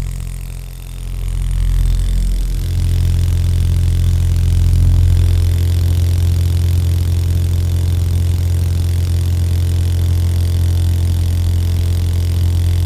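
Steady low machine hum or drone. It dips briefly near the start, then settles into a deeper, even drone about two and a half seconds in.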